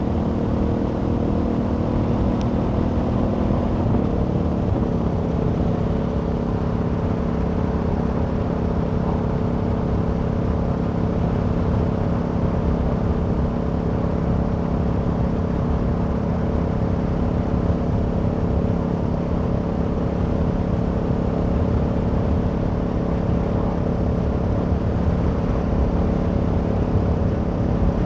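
Aprilia Tuono V4 motorcycle's V4 engine running at a steady speed while riding, with a short step in engine pitch about four seconds in, over wind rush.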